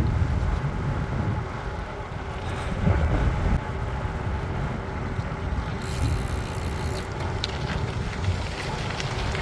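Wind buffeting the microphone while riding a mountain bike, with a steady low rumble from the ride, and a brief hiss about six seconds in.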